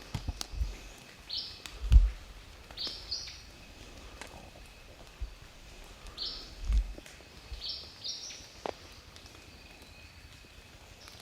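Small songbird chirping in short, quick high notes, repeated a few times. Low dull thumps break in, the loudest about two seconds in.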